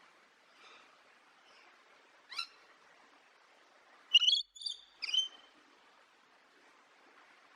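A bird calling: a faint call, a short call about two and a half seconds in, then three louder, pitched calls in quick succession about four seconds in, over faint background hiss.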